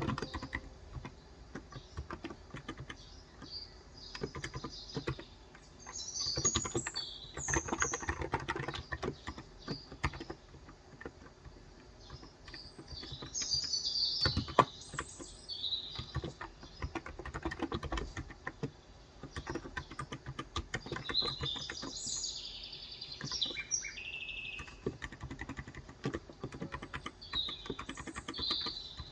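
Typing on a Cox Endeavor electro-capacitive (contactless) 35g tenkeyless keyboard, in runs of keystrokes with short pauses. Birds chirp in short phrases several times over the typing.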